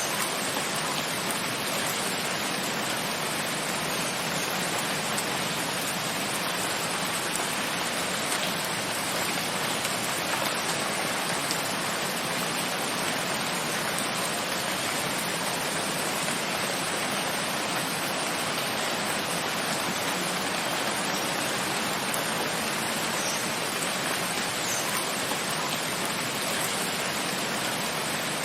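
Steady rain falling: an even, unchanging hiss of drops with a few faint individual drop ticks.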